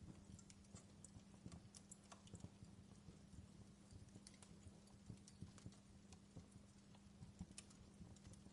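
Faint fireplace crackling: irregular small pops and snaps over a low steady hum.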